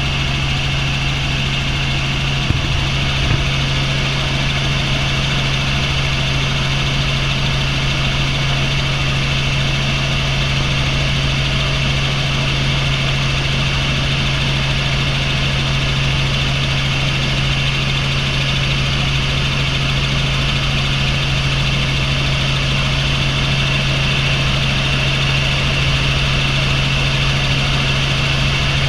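Helicopter in flight heard from inside the cabin: a loud, steady turbine and rotor drone with a constant low hum and a high whine, unchanging throughout, with a couple of faint clicks about three seconds in.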